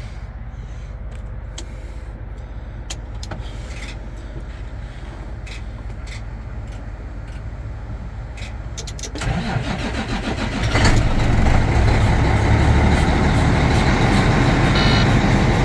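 Cummins ISX inline-six diesel in a 2006 Volvo VNL being started: after several seconds of scattered clicks in the cab, the starter cranks about nine seconds in, and the engine catches within a couple of seconds and settles into a loud, steady idle. Short beeps sound near the end.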